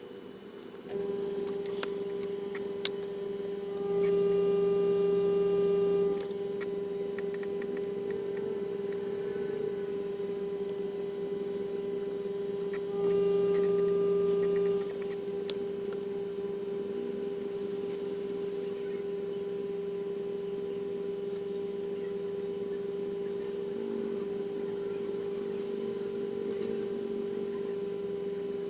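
Steady electrical hum that starts about a second in and grows louder twice for a couple of seconds each time, with a few faint small clicks.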